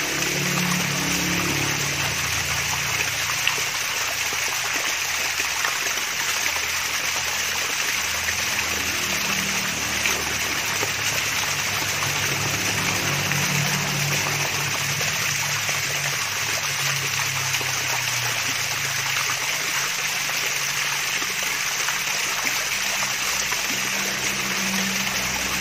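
Small waterfall trickling and splashing steadily: a constant rush of running water with a soft, wavering low gurgle underneath.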